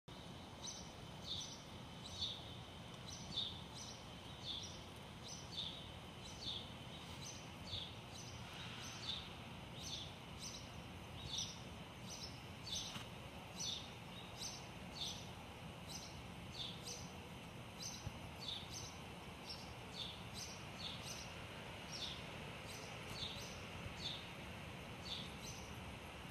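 A small bird chirping over and over, short high notes that fall in pitch, about two a second, over a steady low city hum.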